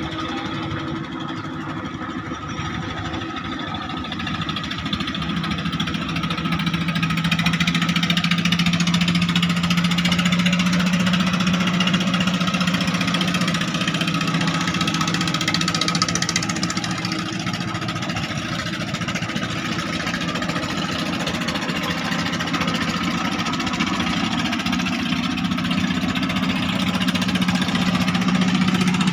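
Klotok riverboat's engine running steadily, its hum growing louder about six seconds in and holding.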